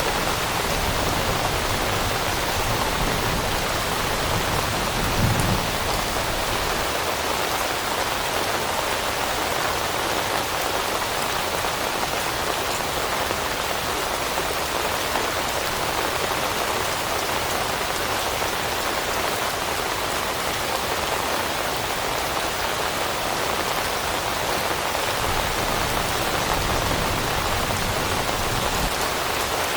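Steady, heavy rain falling on leaves, an even patter all the way through, with a brief low thump about five seconds in.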